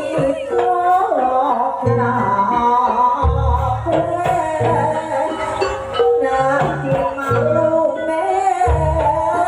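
Live Banyuwangi jaranan ensemble music: melodic percussion over low drum strokes, with a voice singing along.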